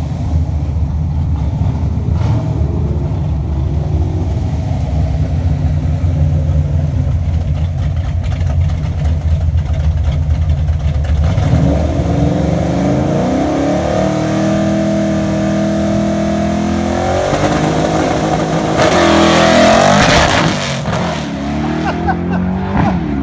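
V8 car engine idling with a low rumble, then about halfway through pulling hard under full throttle, its pitch rising, dropping back at shifts and rising again as it accelerates away.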